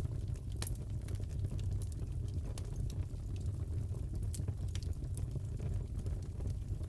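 Crackling fireplace: a steady low rumble of the fire with scattered sharp pops and crackles at irregular moments.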